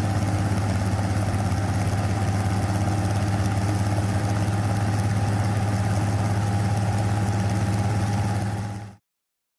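An engine running steadily at an even speed and pitch, fading out near the end.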